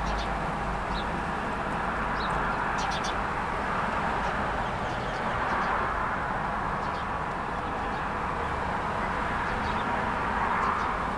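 Steady rush of road traffic, swelling as vehicles pass, with small birds giving short high chirps throughout.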